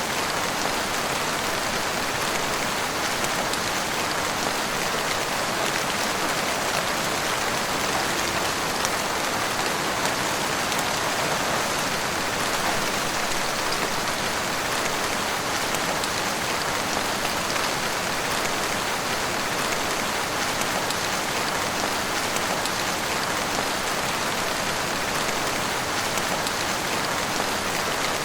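Heavy rain falling steadily, an even, unbroken hiss of drops with no change in strength.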